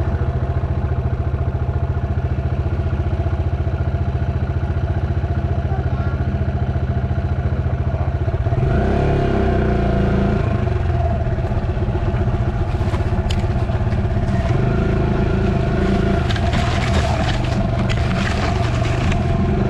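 Dirt bike engine running steadily under way, its note shifting and gliding about halfway through, with scattered scraping and clattering later on.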